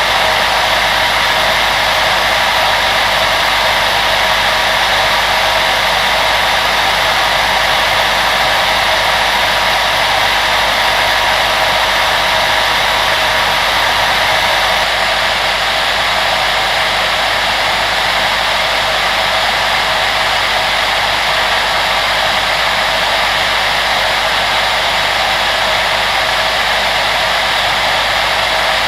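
Steady rushing whir of an electric fan-motor appliance blowing air, unbroken, with a faint steady hum-tone in it; the highest hiss eases slightly about halfway through.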